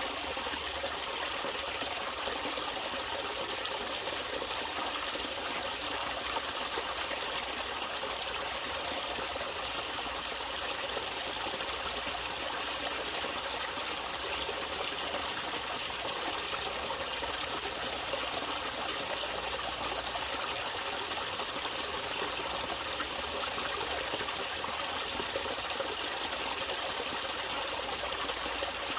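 Natural running water trickling and flowing steadily.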